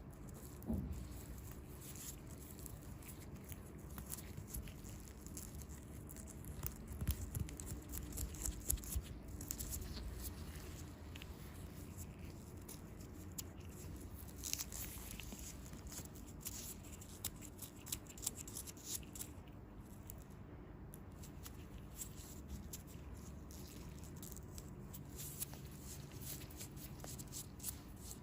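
Close-miked hands working on bare feet: a run of soft tearing, crinkling and pattering with small sharp ticks, busiest about a quarter of the way in and again around halfway.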